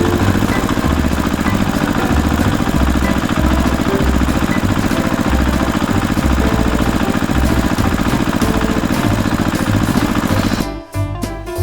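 A tractor engine running steadily with a fast, even beat. It cuts off sharply near the end, and music with drums starts.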